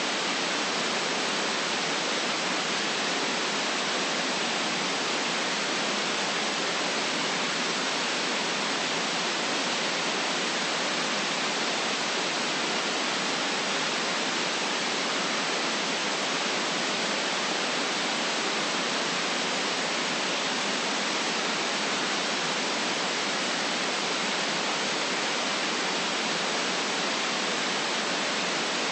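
Steady synthetic white noise, an even hiss with little deep bass that does not change.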